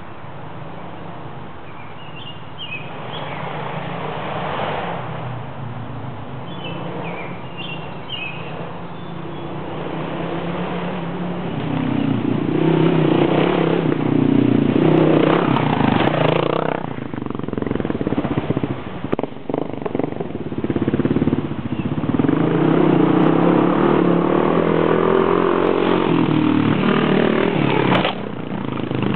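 Single-cylinder dual-sport motorcycles riding laps, engines revving up and down as they pass. The engine sound builds over the first dozen seconds, eases for a few seconds, then comes loud again.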